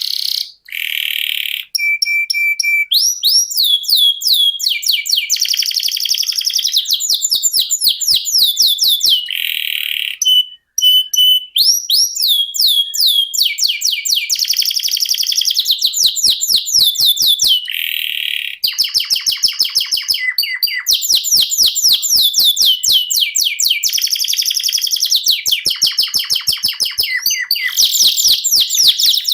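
Canary singing a long, nearly unbroken song of rapid rolling trills, swooping notes and short held whistles, each roll running many notes a second.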